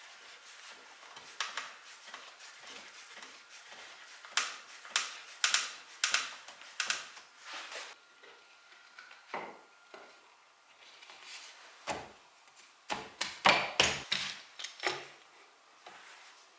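Irregular sharp clicks and knocks of tools and wooden parts being handled, coming in clusters, with the loudest taps about a third of the way in and again near the end.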